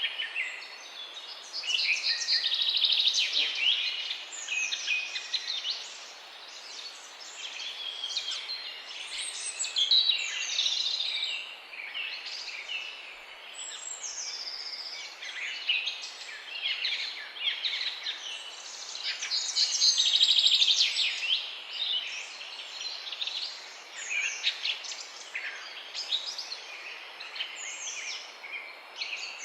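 Several songbirds singing at once, a busy chorus of overlapping chirps, trills and warbling phrases, over a steady background hiss.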